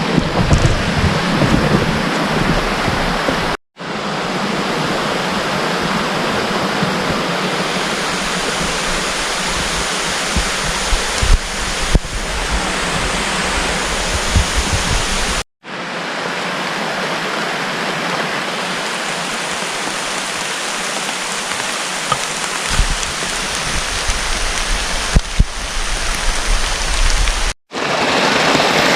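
Steady rain falling through forest, an even hiss with some low rumble and bumps, broken three times by sudden brief drop-outs to silence.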